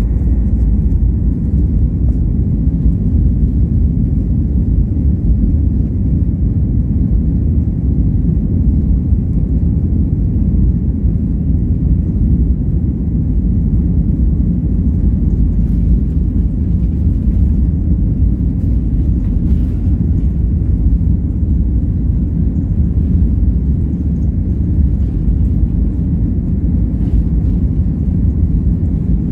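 Airliner cabin noise: a steady, deep rumble of the jet engines and airflow heard from inside the passenger cabin.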